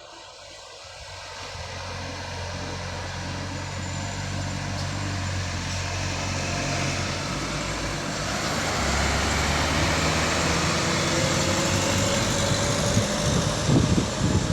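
A heavy vehicle's engine approaching, growing steadily louder, and passing close near the end.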